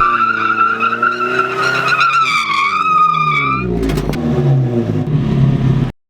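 Nissan Hardbody drift truck's four-cylinder engine with a Flowmaster exhaust, its pitch rising and falling, while the tires squeal in a long, wavering squeal during a drift. The squeal stops a little before four seconds in; the engine runs on until the sound cuts off suddenly near the end.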